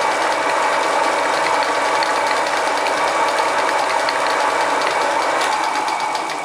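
Homemade mini lathe with a 1 hp (750 W) single-phase motor running steadily while a drill bit cuts into hard steel, with a fine rapid ticking over the motor's hum. It eases off near the end.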